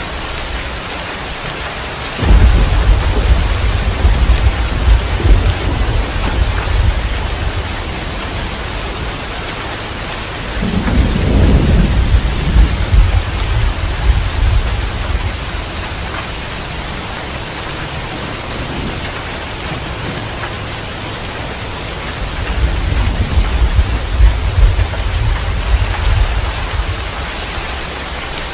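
Steady heavy rain falling in a forest, with low rolling thunder swelling three times: about two seconds in, near the middle, and again toward the end.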